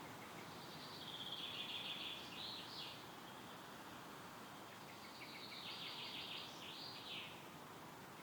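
Wind rustling through woodland trees as a steady hiss, with a songbird singing two phrases about four seconds apart. Each phrase is a quick trill of about two seconds that ends in a rapid up-and-down flourish.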